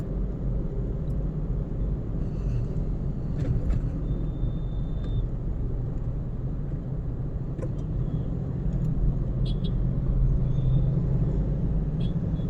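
Steady low rumble of a car's engine and tyres while driving in traffic, with a faint thin tone about four seconds in.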